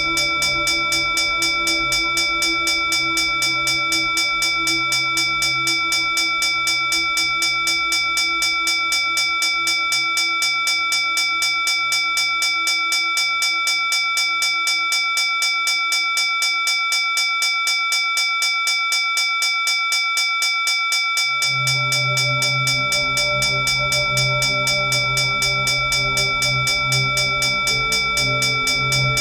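Hindu puja bell (ghanti) rung continuously in rapid, even strikes, its bright ringing tones held steady between strikes. A low drone sits underneath, fading away after the middle and coming back a few seconds later.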